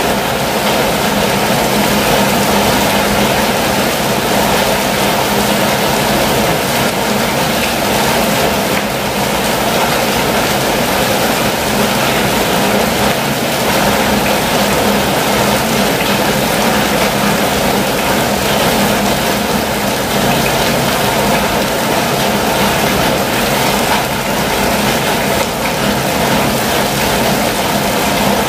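Steady heavy rain falling on a campervan's roof and windows, a dense, even patter that does not let up.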